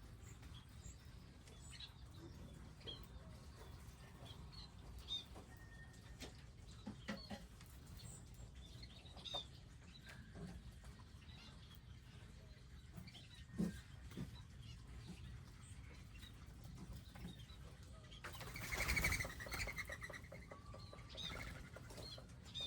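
Wild birds giving scattered short chirps and calls. Near the end comes a louder flurry of rapid wingbeats lasting about two seconds, as birds fly up or land.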